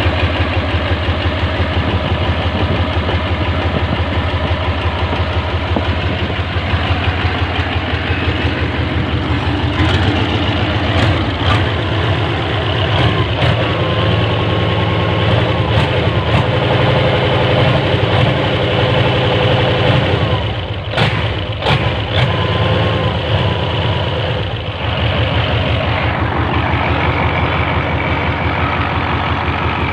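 Hino F21 diesel engine running loud and steady with a dense, even firing beat. A few sharp clicks come about 21 seconds in.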